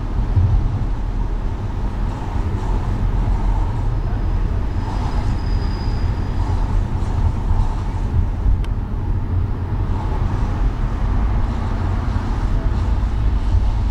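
Car driving through city traffic: a steady low rumble of engine and tyres on the road with surrounding traffic noise, and one short sharp click about two-thirds of the way through.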